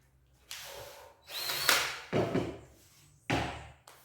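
12-volt cordless DeWalt drill-driver being readied: handling clicks and knocks, and a short run of the motor about a second and a half in. A sharp knock near the end.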